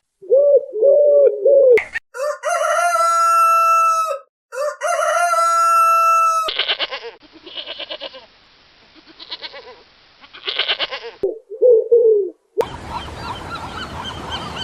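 Rooster crowing twice, each crow a long steady call of about two seconds, with clucking after the crows. Short wavering calls come before and after, and a dense noisy stretch begins near the end.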